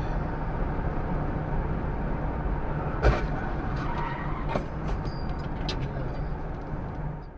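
Steady road and engine noise of a moving car, with one sharp, loud knock about three seconds in and a few lighter clicks after it. The sound cuts off abruptly near the end.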